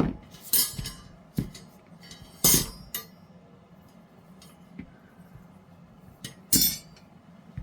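Hard clicks and clinks of cured resin trays and a tray stand being handled and fitted together: a few sharp knocks, the loudest about half a second, two and a half seconds and six and a half seconds in.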